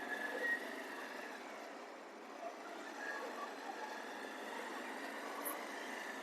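Steady road traffic noise from vehicles running on a street, with a few faint thin tones mixed in.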